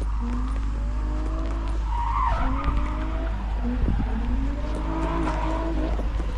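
Motocross bike engines revving as the riders accelerate round the track, the pitch climbing again and again through the gears and falling back, several bikes overlapping, over a steady low rumble.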